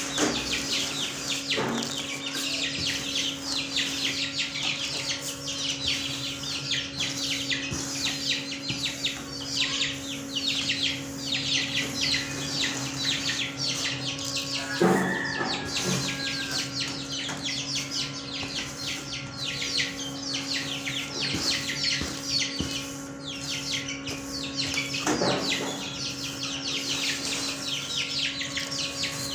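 Many small pet birds chirping rapidly and continuously, with a louder call about halfway through and another near the end, over a steady low hum.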